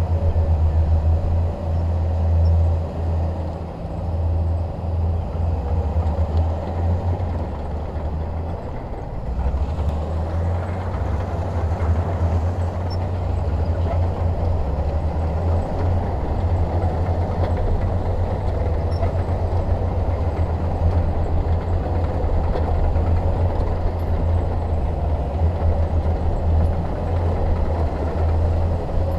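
A bulldozer's diesel engine running with a steady low drone. It eases briefly about four seconds in and again around ten seconds, then picks back up.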